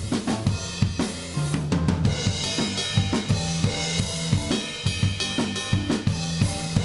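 Instrumental rock band playing live, with the drum kit loudest: steady kick and snare hits under crashing cymbals and hi-hat, over sustained low bass notes.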